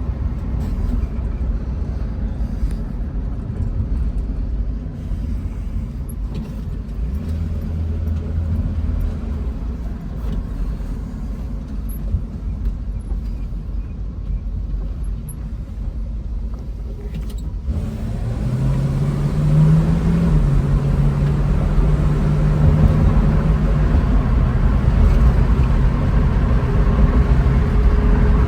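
1966 Ford Mustang's engine running with a steady low rumble; about two-thirds of the way in it cuts abruptly to a louder stretch with a steady low hum.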